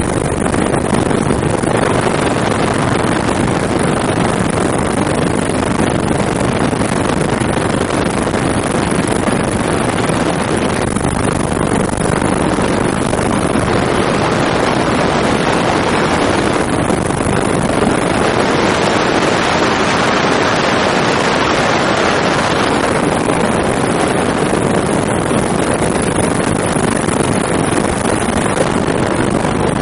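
Steady, loud noise of a helicopter in flight, heard from on board: engine and rotor noise mixed with rushing air, swelling a little now and then.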